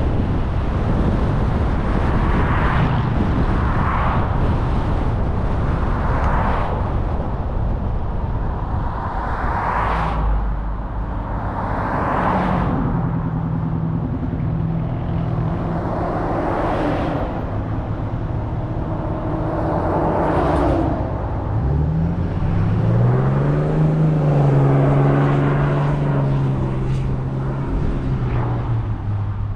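Car driving on a road: steady tyre and road rumble, with other vehicles swelling past every few seconds. From about two-thirds of the way in, an engine's pitch climbs, holds, then drops near the end as the car speeds up and eases off.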